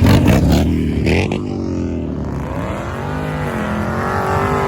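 A car engine running hard, with a heavy low rumble in the first second. Its pitch then sweeps up and down several times as it revs and accelerates.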